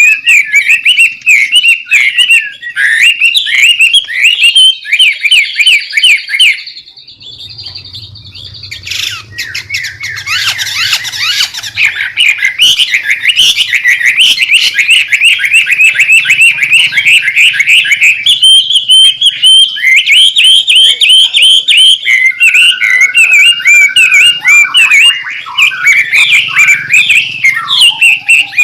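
White-rumped shama (murai batu) singing its busy, noisy song: fast runs of rapid repeated chirps and trills, with a brief break about seven seconds in and a short held whistle later on.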